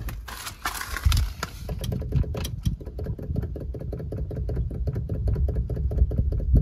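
Renault Kangoo Z.E. electric van driving over a rough road, with a steady low rumble from the road and repeated sharp knocks from the steering. The knocking comes from play that the owner traced to the steering shaft rather than to a worn steering rack.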